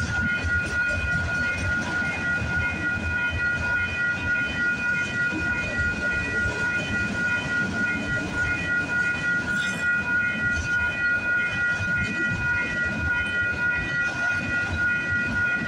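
Freight train's autorack and box cars rolling through a level crossing with a steady rumble and wheel clatter. The crossing's warning bell rings without a break over it, as steady high tones.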